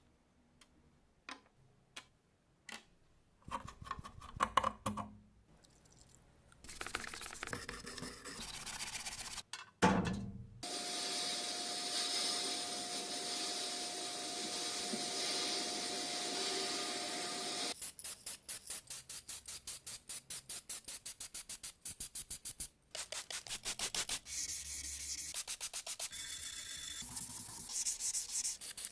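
Restoration work on an old electric saw: a few sharp clicks, a steady run of several seconds with a faint whine, then rapid back-and-forth abrasive rubbing strokes, as in sanding or filing a part.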